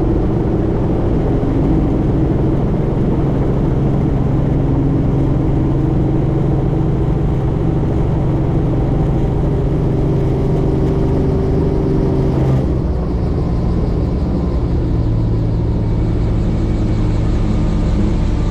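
Helicopter in flight: engine and rotor noise as a loud, steady drone. The pitch of the drone shifts about two-thirds of the way through.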